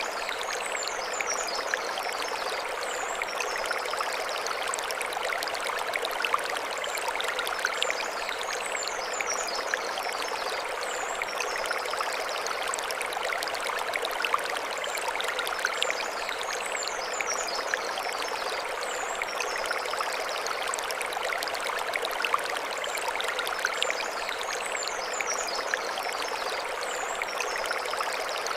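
Mountain stream running over stones, a steady rushing and splashing of water. Short high chirping calls come over it in pairs every few seconds.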